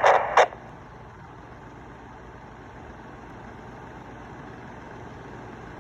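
Wouxun KG-UV9G Pro handheld radio between transmissions: two short bursts of noise, then a steady low noise.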